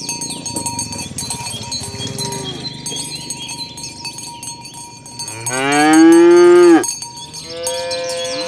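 Cows mooing over the steady jingling of many cowbells. One loud, long moo comes about five seconds in, and another begins near the end.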